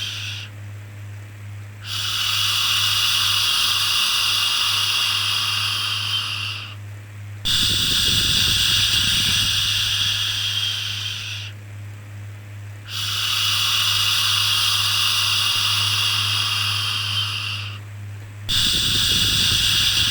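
Long 'shhh' shushing sounds for soothing a baby, repeated in a steady cycle: each lasts about four to five seconds, with a pause of about a second between, over a steady low hum.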